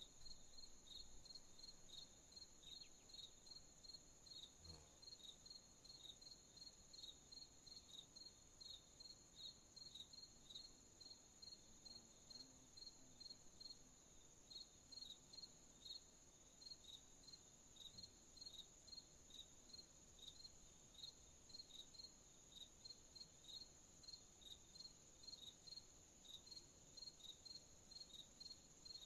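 Faint night insect chorus: crickets chirping in a regular pulse about twice a second over a steady, higher-pitched insect trill, with a brief pause in the chirping about halfway through.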